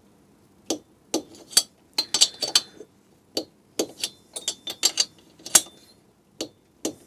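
Torque wrench ratcheting on the cylinder head nuts of a Suzuki K10 two-stroke as they are tightened to 7 foot-pounds: irregular sharp metallic clicks, some in quick runs, starting just under a second in.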